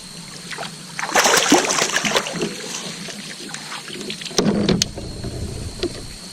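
Hooked bass splashing at the water's surface beside a kayak for a second or so, followed about four seconds in by a few sharp knocks and a low thump.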